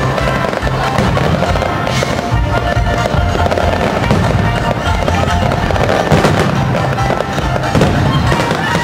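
Aerial fireworks display: shells bursting in a rapid, overlapping barrage of bangs and crackles, over music.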